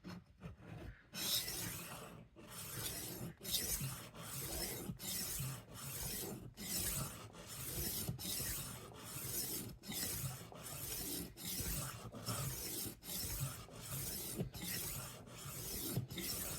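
Rolling knife sharpener's 600-grit abrasive plate rasping along the edge of a steel chef knife in repeated strokes, a little more than one a second, as the edge is refined after a burr has formed.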